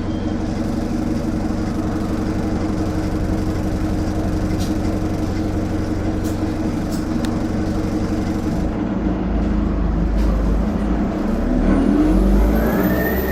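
Turbocharged bus engine running steadily, then pulling harder about nine seconds in: the engine note rises and a high-pitched turbo whistle climbs sharply near the end.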